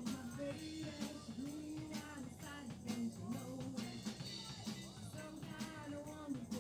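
Live band playing at an open jam, a drum kit keeping a steady beat under a bending, wavering melody line.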